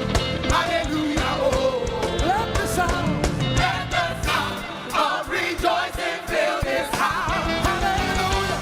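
Live gospel praise music: a full band with drums and bass under energetic singing voices.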